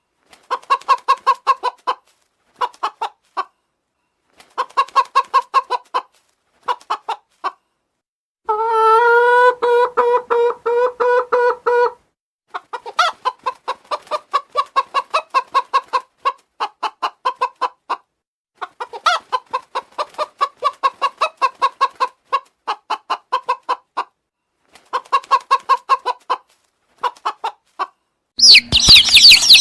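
Chickens clucking in quick runs of pulses, in bouts with short gaps between them, with one long drawn-out call lasting about three seconds, starting some eight seconds in. Near the end a much louder, harsher noise cuts in.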